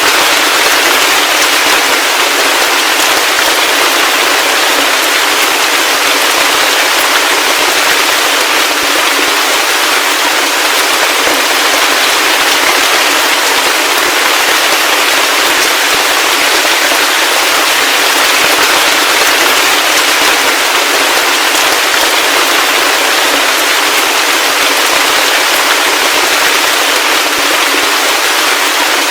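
Heavy rain falling steadily: a loud, even hiss of many close drop impacts with no low rumble.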